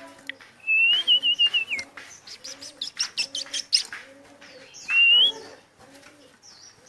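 Songbirds singing: a warbling whistled phrase about a second in and a shorter rising whistle near five seconds, with a run of quick chirps between. Under them, low cooing repeats steadily, like doves.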